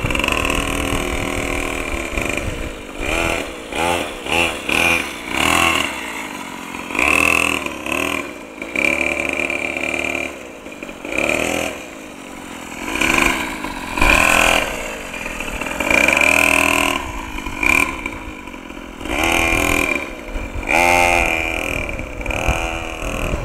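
Small motocross bike's engine revving up and dropping back over and over as the throttle is opened and closed, every second or two.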